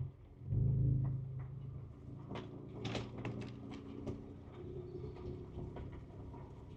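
Ford Ranger Raptor's engine heard from inside the cab on a rough trail, rising briefly in revs about half a second in and then settling to a low steady run. A quick series of clunks and knocks, about two to three and a half seconds in, comes from the truck working over the uneven ground.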